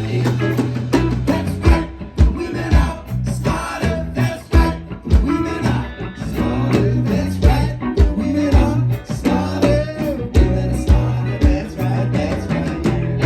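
Live band playing an upbeat calypso-style song, with electric guitar over a steady bass line and regular drum beats.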